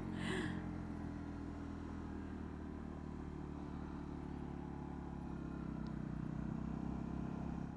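Honda CB125R single-cylinder 125 cc engine running steadily under way, with road and wind noise, getting slightly louder about five seconds in.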